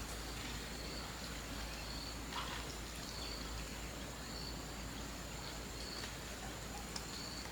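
Rural outdoor ambience: insects chirping, a short high chirp repeating roughly once a second over a steady thin high drone, with a few faint clicks.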